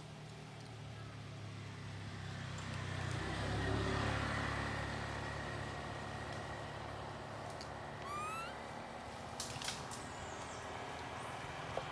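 A motor vehicle passing, its engine rumble swelling to a peak about four seconds in and then fading. About eight seconds in comes one short rising whistle-like call.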